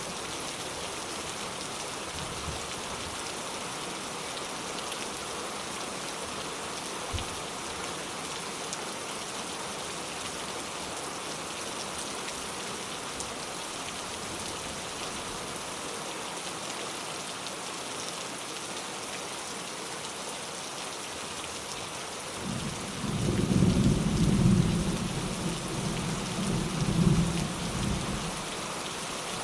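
Steady rain falling, with a rumble of thunder rolling in about three quarters of the way through, swelling twice and dying away just before the end.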